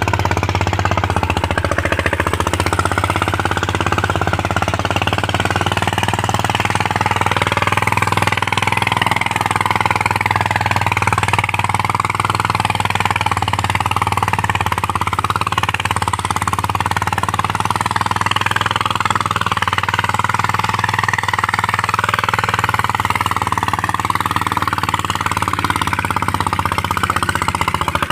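Mahindra Yuvraj 215 NXT mini tractor's single-cylinder diesel engine running steadily with a rapid knocking beat, with music playing alongside.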